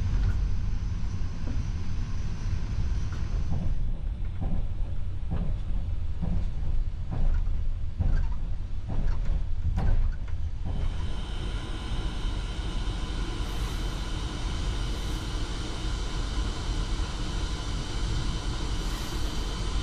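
Moving passenger train running on the track: a steady low rumble, with a run of evenly spaced knocks, about two a second, in the middle. Near the end the sound turns brighter, with a steady hiss and faint whining tones.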